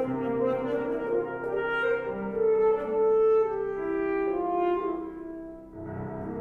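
Alto saxophone playing a slow melody of held, mellow notes that step from pitch to pitch; near the end a lower accompanying sound enters beneath it.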